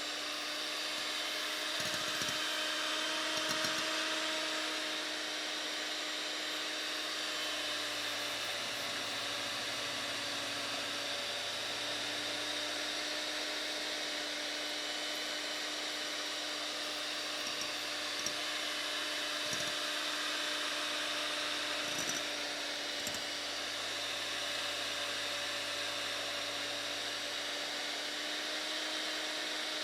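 Electric hand mixer running steadily at low speed, its beaters whisking whipped egg foam in a bowl to smooth out the large bubbles. A few light ticks come through the steady motor whine.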